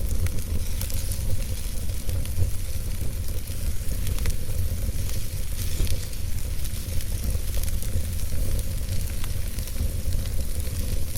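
Wood fire burning logs in a fireplace: a steady hiss with many small, irregular crackles and pops, over a continuous low rumble.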